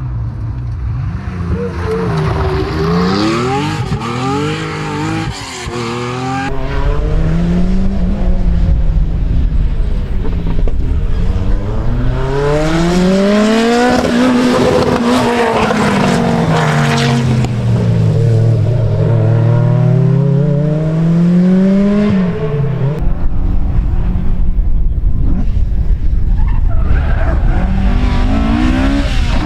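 Rally car engine revving hard, its pitch climbing and falling again and again with gear changes and lifts off the throttle, including a long fall in the middle and a sudden drop near the end. A heavy low rumble joins in after about six seconds.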